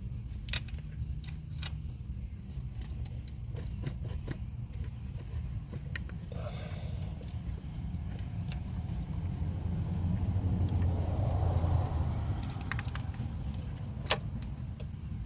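Scattered light metallic clinks and taps of hand tools and small parts while nuts are run down with a ratchet in a pickup's engine bay, over a steady low hum. A low rumble swells and fades about ten to twelve seconds in.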